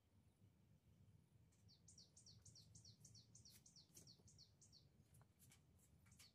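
Faint bird song: a quick run of high, down-slurred notes, several a second, starting about one and a half seconds in and lasting around three seconds, with a few faint clicks near the end.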